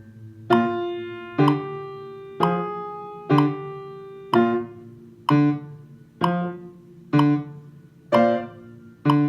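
Piano music: chords struck about once a second, each ringing out and fading before the next.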